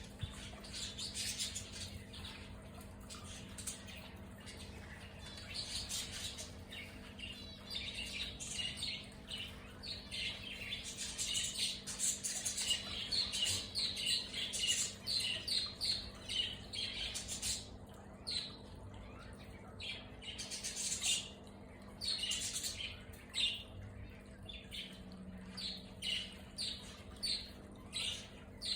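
Mixed aviary birds (zebra finches, lovebirds and bulbuls) calling together: many short chirps and shrill squawks overlapping in a constant chatter, over a faint steady hum.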